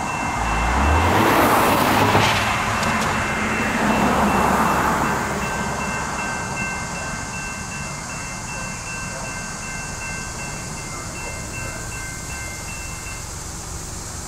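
A SEPTA regional rail train passing over a grade crossing, loudest in the first five seconds and then fading as it moves away. A crossing warning bell rings steadily over it and stops near the end.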